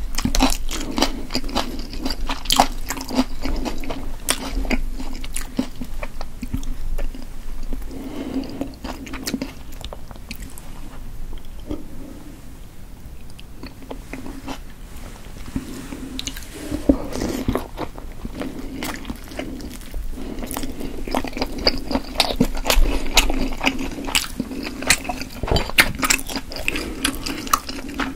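Close-miked chewing of chewy steamed potato dumplings: wet, sticky mouth sounds with many small clicks, quieter for a few seconds midway and denser again near the end.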